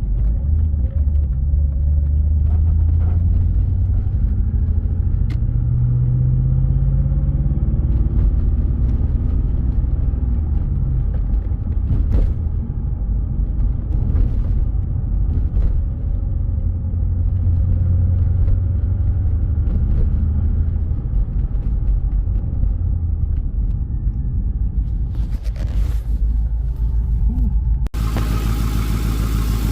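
Twin-turbo LS V8 in a BMW E36 running while the car is driven, a deep rumble whose pitch rises and falls gently with the throttle. Near the end it cuts abruptly to a brighter, harsher engine sound.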